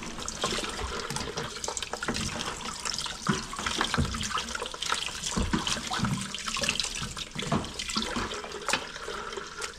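Kitchen tap running into a sink as raw chicken pieces are washed under it, with irregular splashes and knocks.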